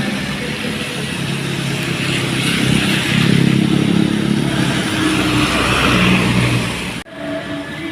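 Heavily loaded dump truck's diesel engine pulling past over a hiss, growing louder through the middle and then fading. The sound cuts off abruptly about a second before the end, replaced by a different sound with steady tones.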